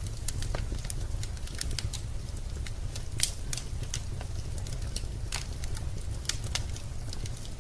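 Wood fire crackling in a fireplace: irregular sharp pops and snaps, one louder pop about three seconds in, over a steady low rumble.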